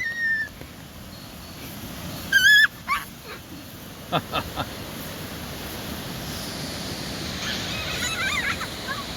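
A dog whining, with a short high whimper about two and a half seconds in, a few quick yips around three to four and a half seconds, and faint wavering whines near the end, over a steady rush of floodwater.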